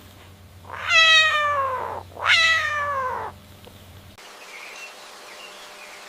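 Cat meowing twice, each call about a second long and falling in pitch.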